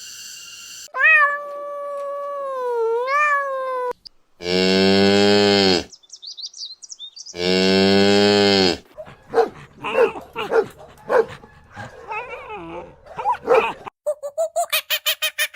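A cow mooing twice, each moo a long, steady call of about a second and a half, the second about three seconds after the first. Before them a higher call wavers in pitch. After them come a run of short, irregular animal calls, then a fast pulsing sound near the end.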